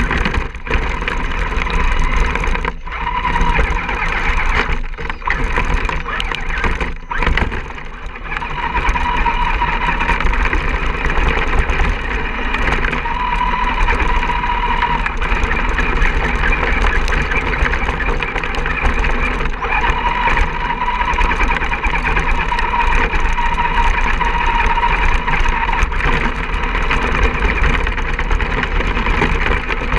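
Electric motor and gearbox of a radio-controlled scale rock crawler whining as it drives, the whine rising and fading with throttle and briefly cutting out a few times in the first eight seconds.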